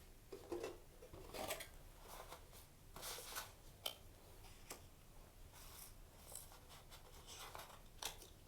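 Quiet scattered rustling and scraping of story pieces from a parable box being handled and slid into place on a surface, in short separate strokes.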